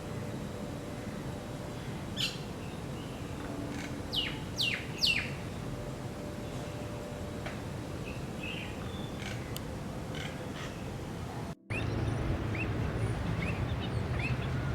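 Wild birds calling over steady outdoor background noise: a few sharp calls sweeping downward in pitch, the loudest three close together about four to five seconds in. Later the background changes abruptly and a bird repeats short chirps about twice a second.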